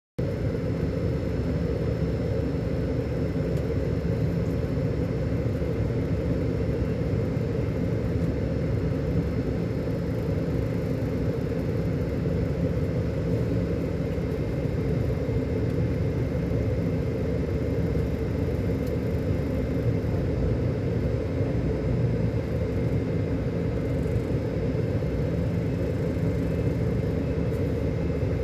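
Scania K400 Euro 5 coach's diesel engine running, a steady low rumble.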